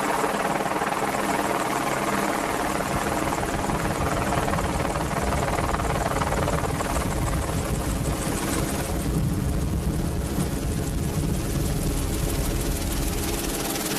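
Merlin (AW101) helicopter in flight: a steady drone of rotor and turbine engines with several held tones. The higher part of the sound fades for a couple of seconds after about nine seconds in.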